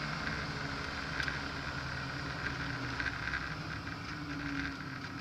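Car engine pulling at track speed, heard from inside the cabin over tyre and wind noise. Its note steps down slightly about a second in, then holds steady.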